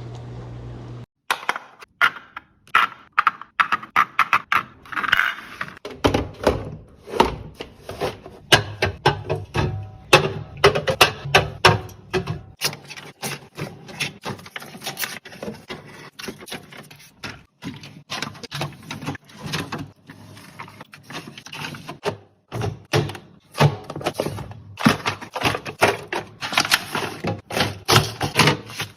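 Quick, irregular run of clicks, taps and knocks as containers and packaged food are handled and set down while a fridge is restocked.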